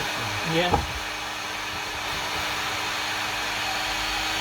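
Hot-air blower running steadily, an even rush of air with a constant motor hum.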